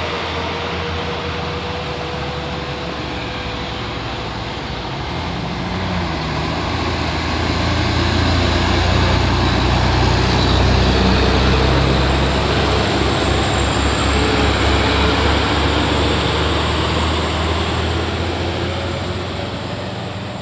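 Heavy truck engine labouring up a steep grade. It grows louder over several seconds as it passes, then fades away.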